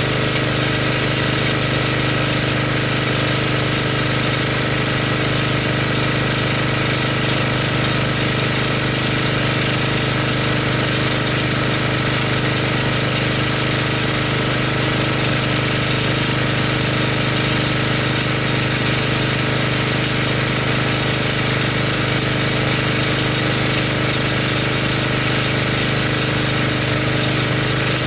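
Pressure washer running steadily while spraying soap foam through an MTM foam cannon: an even motor hum under a constant hiss of spray.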